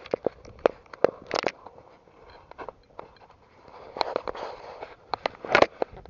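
Irregular sharp clicks and knocks, a dozen or so, with brief rustling about four seconds in and again near the end.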